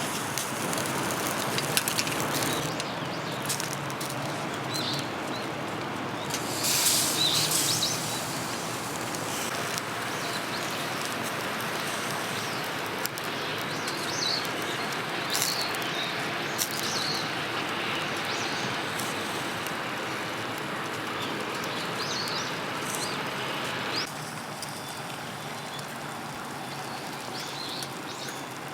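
Steady rain falling, with birds chirping now and then over it. A brief louder hiss comes about seven seconds in, and the rain sound steps down a little near the end.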